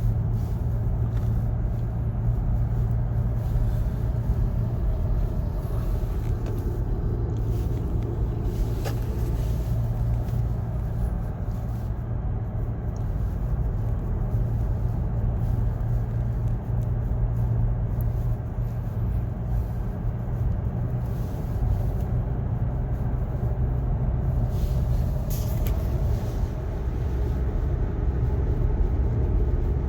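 Car engine and road noise heard from inside the cabin: a steady low hum with rumble.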